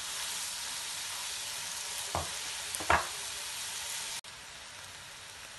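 Ginger-garlic paste sizzling as it fries in hot oil in a pan, stirred with a silicone spatula, with two brief louder strokes from the stirring about two and three seconds in. A little after four seconds the sizzle drops suddenly quieter and carries on.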